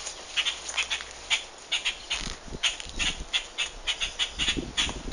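A bird calling in short chirps repeated about three times a second, with a low rumble from about two seconds in.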